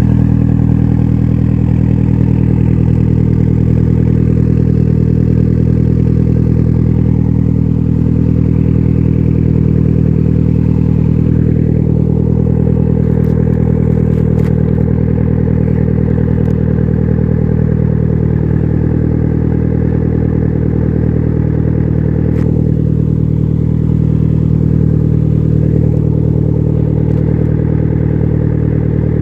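Engine idling steadily through a homemade exhaust muffler can, a low even exhaust note with no change in speed.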